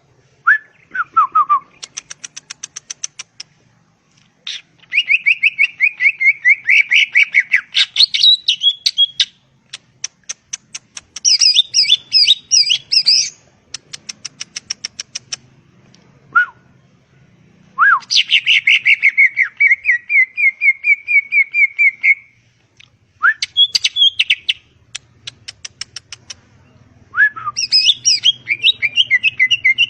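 Green leafbird (cucak ijo) singing a long, fast, varied song: chattering trills, rapid strings of clicking notes and short downward-sliding whistles, in bursts of a few seconds with brief pauses between them.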